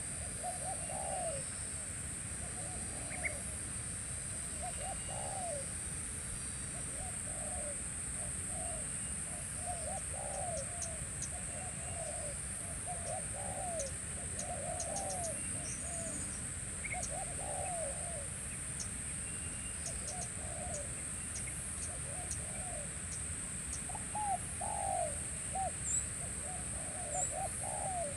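Spotted doves cooing, repeated short phrases of a few low notes each, over a steady high-pitched hiss.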